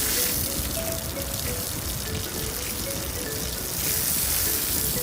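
Running water splashing steadily from a tap or shower, rinsing sand off someone's legs and feet. A light melody of short notes plays over it.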